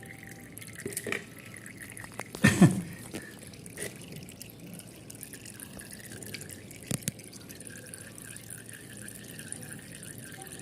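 Engine oil draining from a motorcycle's crankcase drain hole into a catch can, a steady liquid trickle, with a loud knock about two and a half seconds in and a few lighter clicks.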